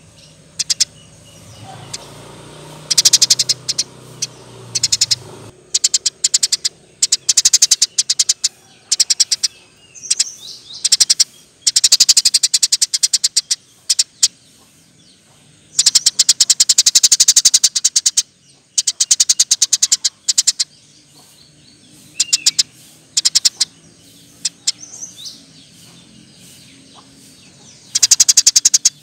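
Eurasian tree sparrow singing loudly: fast rattling runs of high chirps, some lasting a couple of seconds, broken by short pauses and a few single rising notes.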